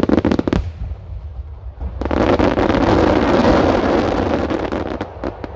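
Fireworks starmine barrage. A quick cluster of sharp bangs opens it, then about two seconds in a dense rolling rumble of many shell bursts swells and fades, with a few sharp pops near the end.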